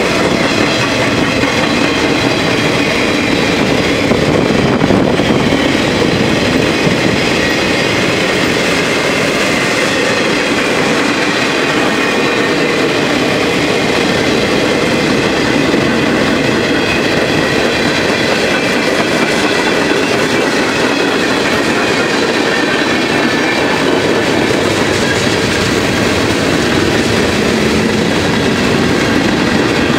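A mixed freight train of boxcars, tank cars and covered hoppers rolling past at speed, its steel wheels running steadily on the rails with a faint high squeal over the rumble.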